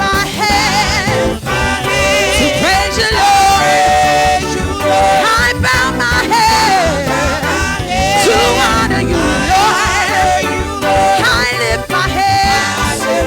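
Live gospel praise music: singers with strong vibrato over a full band with keyboard and drums, continuous and loud.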